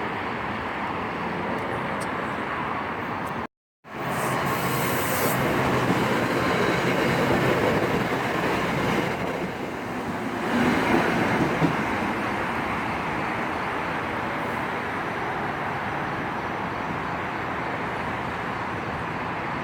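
Train passing: steady noise of wheels running on the rails, cut by a brief drop to silence a few seconds in.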